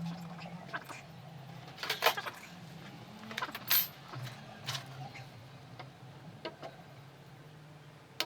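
Scattered metallic clinks and taps of tools or parts being handled, over a steady low hum.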